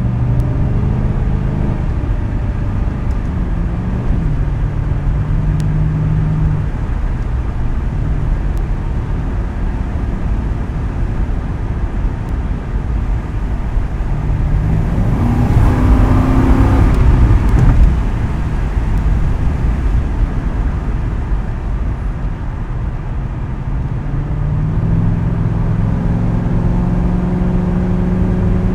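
2010 Ford Crown Victoria Police Interceptor's 4.6-litre V8 running through a custom exhaust with quad tips while being driven. The engine note climbs under acceleration about halfway through, is loudest for a few seconds, then eases off, and builds again near the end.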